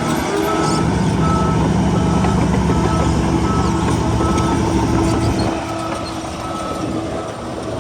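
Reversing alarm on heavy earthmoving equipment beeping at a steady pace, about one and a half beeps a second, over the low drone of a diesel engine. The engine sound drops back about two-thirds of the way through.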